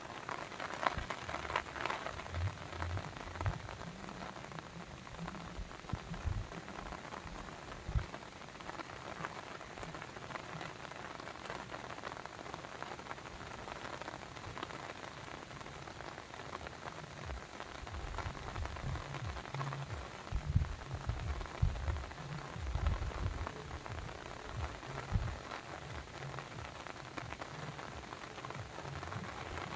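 Steady rain falling on a surface, a dense patter of drops with irregular low thuds among them.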